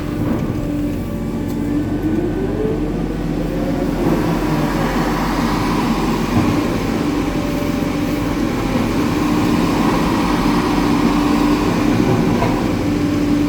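Hitachi 890 excavator's diesel engine and hydraulics working under load, with a brief rising whine about two seconds in and the engine getting louder from about four seconds in.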